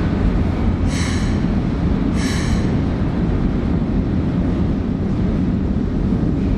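Electric commuter train running through the station with a steady low rumble, and two short high-pitched squeals about one and two seconds in.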